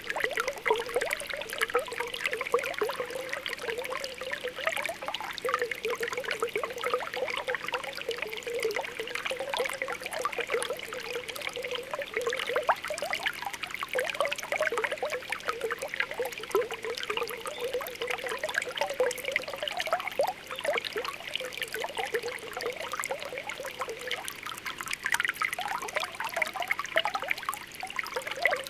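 Spring water welling up from the ground with continuous small popping and bubbling, like a steady trickle.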